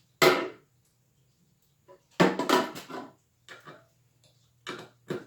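Cordless impact driver hammering a deck screw into very hard wood in short bursts: a brief one at the start and a longer one about two seconds in, followed by a few lighter knocks.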